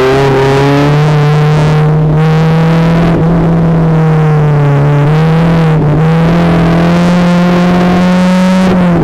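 Renault Twingo Twin'Cup race car's four-cylinder engine heard from inside the cabin, pulling steadily at high revs with its pitch creeping up. It dips briefly twice and drops abruptly at the end as it shifts up a gear.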